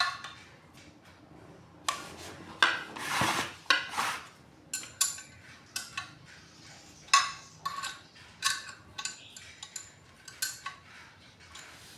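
Irregular metal-on-metal clinks and knocks with brief ringing, with a short scrape a few seconds in: hand tools working on the water pump's metal parts as its bolts are tightened down.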